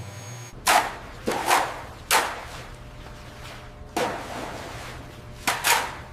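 A series of seven sharp knocks or cracks, irregularly spaced and some in quick pairs, each ringing briefly before dying away. A low hum cuts out just before the first one.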